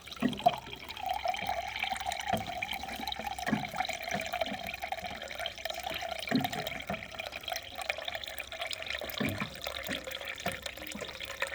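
Water running from a tap into a pot, a steady splashing stream with a held tone, with a few light knocks; the flow cuts off near the end.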